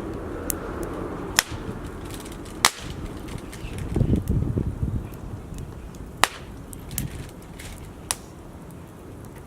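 Wood fire crackling: scattered sharp pops over a steady low rush, with a brief louder rumble about four seconds in.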